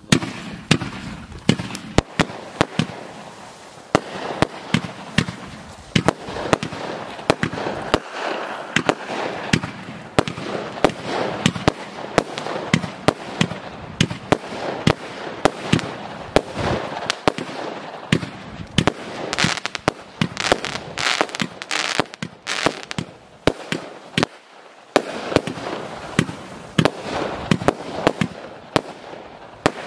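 Blizzard consumer firework going off in a long rapid run of sharp cracking shots, several a second, with continuous crackle between them and a brief lull about three-quarters of the way through.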